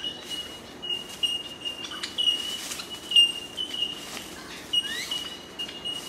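Birds calling: a thin high note repeated over and over, with a couple of short rising chirps about five seconds in.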